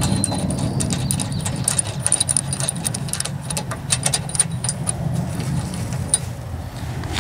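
Irregular small clicks and ticks of a long Phillips screw being driven through the tow-hook license plate mount's metal cup and plates, over a steady low rumble.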